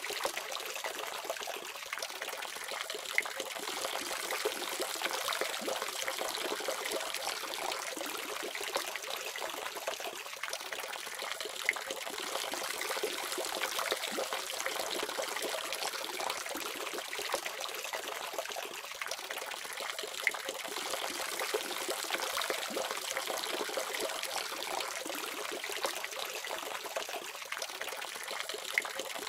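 Water faucet running steadily, a continuous stream splashing and trickling with small irregular spatters.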